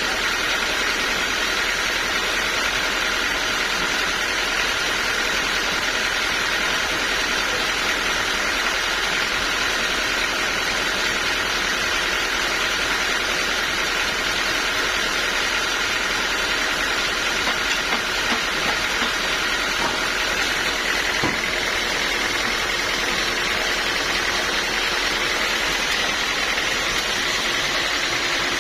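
Sawmill machinery running steadily: a constant mechanical din with a high whine that rises slightly about 21 seconds in.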